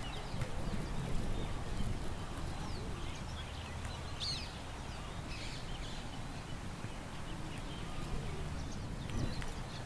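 Park ambience: small songbirds chirping here and there, with a clearer call about four seconds in, over a steady low rumble of wind.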